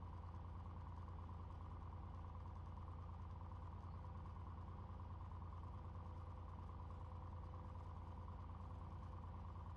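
Cessna 182's piston engine running steadily at low power, heard in the cabin as an even low drone with a faint hum on top.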